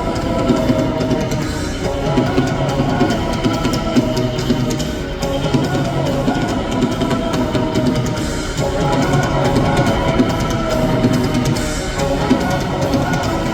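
Rock band playing live, with drum kit and guitars, amplified through an arena sound system.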